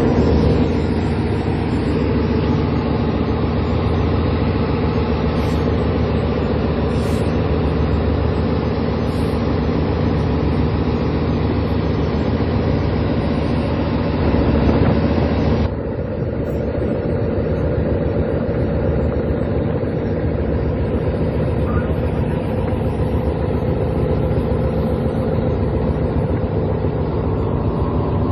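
A fishing boat's engine runs steadily with a low, even hum. About 16 seconds in, the sound changes abruptly and the higher hiss drops away.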